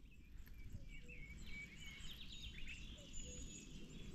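Faint birdsong: a small bird singing short high chirps and gliding notes, with a quick trill about halfway, over a low background rumble.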